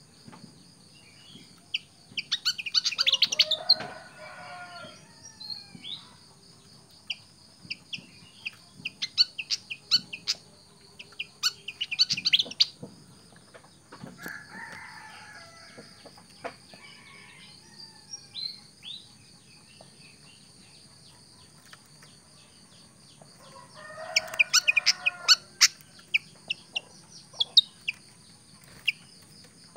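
Small songbird, a fantail (kipasan), giving short sharp chirps scattered throughout, over a steady high-pitched insect-like whine. Three bursts of lower, clucking fowl-like calls come at about 2 seconds, 14 seconds and 24 seconds in.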